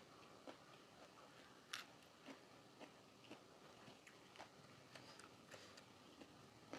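A person chewing food, faintly, with short crisp crunches and mouth clicks about twice a second; the strongest crunch comes a little under two seconds in.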